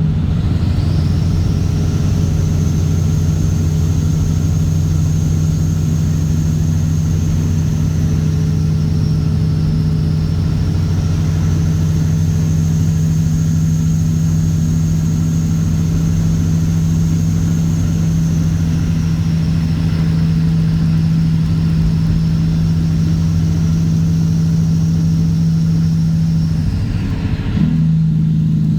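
Straight-piped Caterpillar C15 ACERT diesel in a Kenworth W900 running at a steady pull, its low note holding one pitch, with a high whine above it. Near the end the whine drops away and the engine note briefly breaks and changes.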